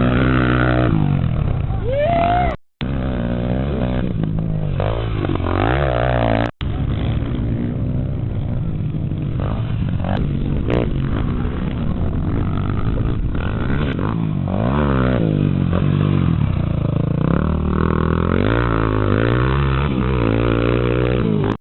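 Motocross bike engines revving up and down again and again, the pitch climbing and dropping with the throttle, broken by two brief gaps early on.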